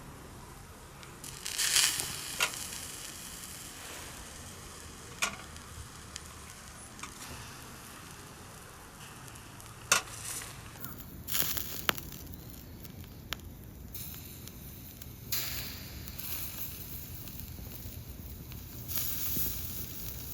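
Pork skewers sizzling over a charcoal grill, a steady hiss broken by scattered sharp pops and crackles.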